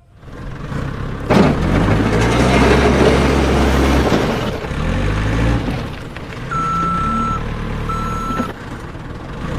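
A JCB digger's engine sound runs with a rumble and a rushing noise for the first few seconds. Then come two short reversing beeps, about a second apart.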